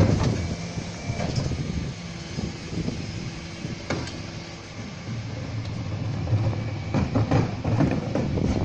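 Refuse collection lorry running, with the steady hum of its engine, a brief steady whine midway and several metallic clanks as wheelie bins are handled and tipped at the back.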